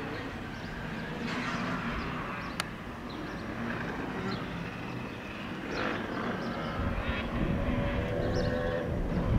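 Boeing 787-8 jet airliner on approach with its landing gear down, a steady distant engine rumble. Heavier low buffeting builds in the last few seconds, with a few short high chirps over the top.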